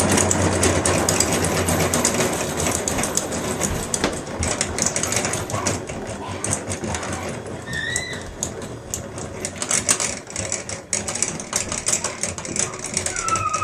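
Honey extractor spinning frames of honeycomb, a steady fast mechanical rattle and whir that gradually gets quieter.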